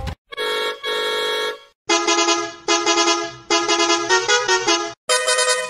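Cartoon vehicle-horn sound effect: two steady honks in the first second and a half, then a musical horn playing a short tune of quick changing notes. There is a brief break about five seconds in.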